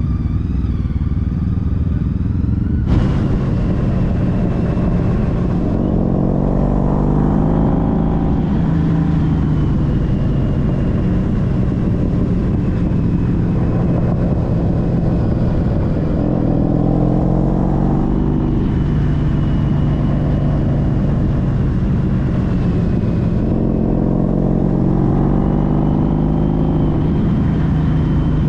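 Honda CTX1300's V4 engine running under way with wind noise, its note rising three times as the bike accelerates and easing back between.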